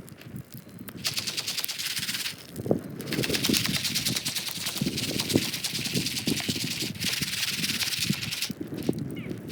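Popcorn kernels popping rapidly over a fire, a dense stream of sharp pops that comes in runs with brief lulls.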